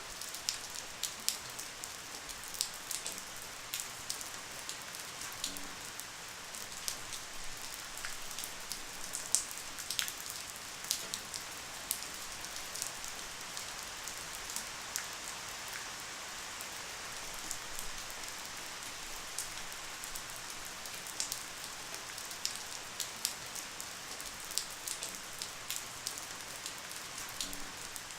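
Light rain falling steadily: a soft even hiss with many individual drops ticking sharply and irregularly throughout.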